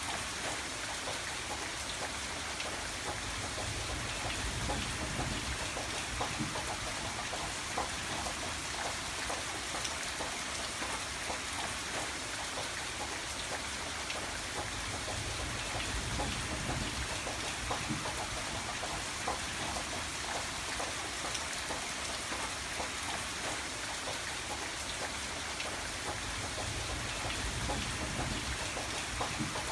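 Steady rain falling, a dense patter of many small drops, with a soft low rumble swelling up a few times.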